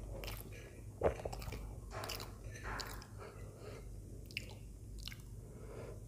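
Close-miked chewing of soft idli with sambar: irregular mouth clicks and soft squishy chewing, with a sharper click about a second in.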